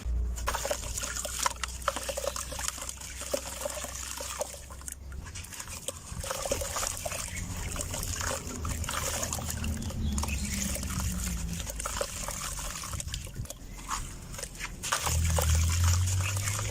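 Dry, dusty red dirt crumbling and trickling, a dense run of small crackles and crunches. A louder low hum comes in near the end.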